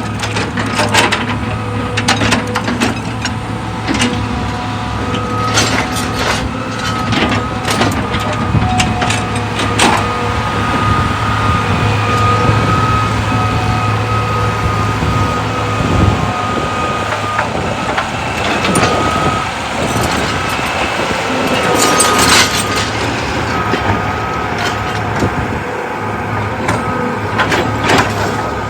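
Heavy machinery at a rock-crushing site running steadily: a low engine hum with a thin steady high tone above it, and many sharp knocks and clacks of stone and metal.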